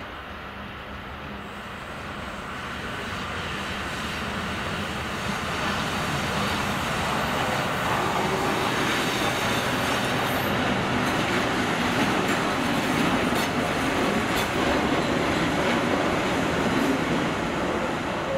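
A train moving through the station: the class 736 diesel shunting locomotive's engine running and the steel wheels of its passenger coaches rolling on the rails. The noise grows louder over the first six seconds or so and then holds steady.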